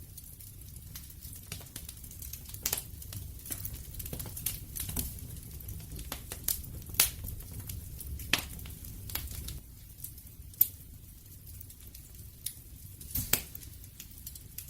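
Wood campfire crackling: irregular sharp pops and snaps over a low steady rumble of the flames, with the loudest pops about halfway through and a quick cluster near the end.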